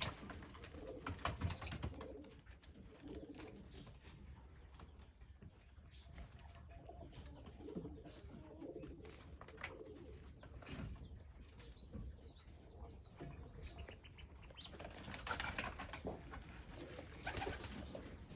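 Birds making soft, low cooing calls, with scattered small clicks and rustles. Louder rustling comes twice near the end.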